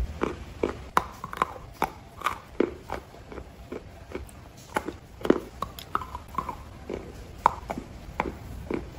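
A mouthful of dry edible clay being chewed, making sharp crunches about two to three times a second, the loudest a little past halfway.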